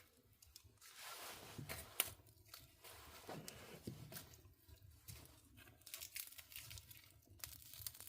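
Faint, irregular dry tearing and crunching: grilled dried pollack being pulled apart by hand. A sharp click comes about two seconds in.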